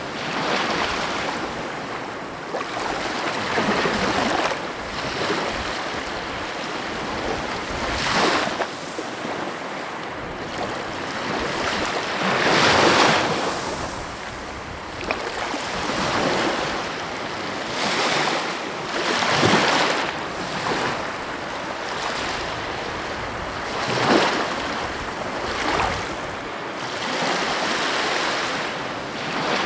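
Sea waves breaking and washing on the shore, the surf rising and falling in swells every few seconds, one of the loudest about halfway through.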